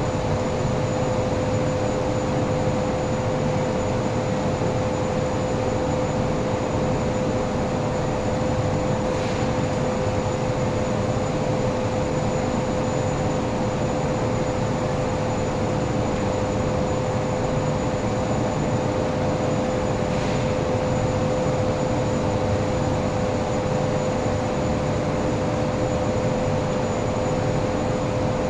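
Workshop machine running steadily, a constant motor hum with a strong steady tone and no change in speed or load.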